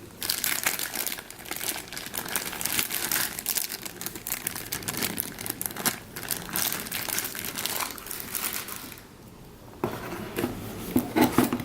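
Packaging crinkling and rustling as model-kit parts are handled and unpacked, with a brief lull about nine seconds in.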